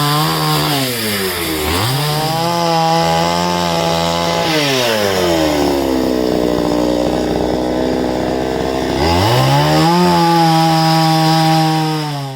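Chainsaw cutting jackfruit wood. The engine runs at high revs, dips briefly under load about a second in, then bogs down for about four seconds as the chain works through the log. It revs back up and cuts off abruptly near the end.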